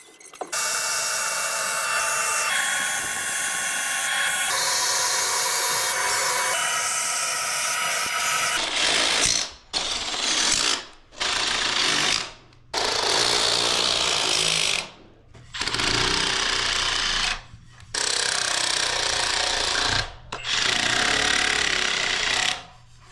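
Handheld power tool run hard in repeated trigger pulls: one continuous run of about eight seconds, then about six shorter runs of one to two seconds each with brief stops between.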